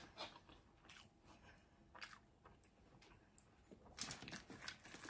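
Faint chewing of fried yam: a few soft, scattered crunching clicks, busier in the last second.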